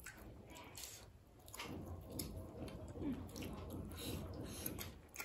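Chewing and wet mouth sounds of people eating, with a few short clicks of spoons against plates.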